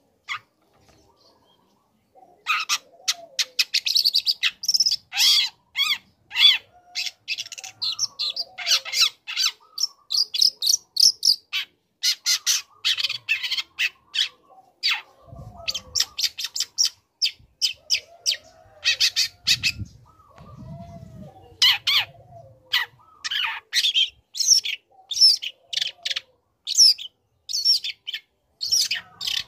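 Young long-tailed shrike singing a fast, dense run of short, sharp chattering notes, starting about two seconds in and going on with brief pauses.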